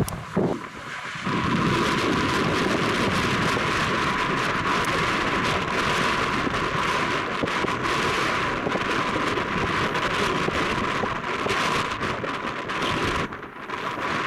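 Jet airliner's engines roaring as it passes, a loud steady rush that swells about a second in and fades near the end.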